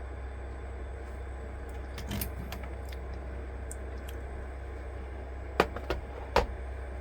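A few sharp clicks and knocks from handling gear, heard over a steady low hum: two near the middle and a cluster near the end.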